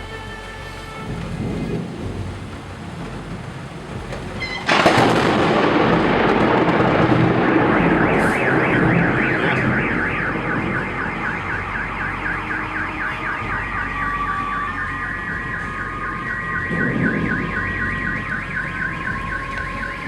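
A close lightning strike: a sudden, loud thunderclap about five seconds in that rumbles on, and a few seconds later a car alarm set off by it, sounding a fast repeating warble with steady alarm tones joining later.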